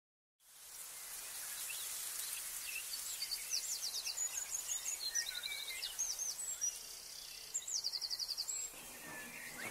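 Countryside ambience fading in after about half a second: a steady high hiss with several birds chirping and giving quick repeated trills.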